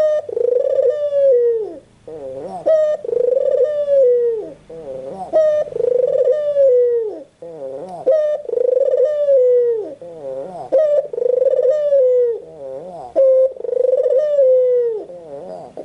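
White collared dove (puter putih) cooing over and over: a rolling, wavering coo running into a long falling note, repeated every second and a half to two seconds.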